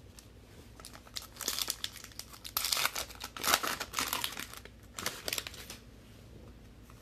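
A plastic foil trading-card pack wrapper being torn open and crinkled in the hands, a run of crackly rustles loudest in the middle.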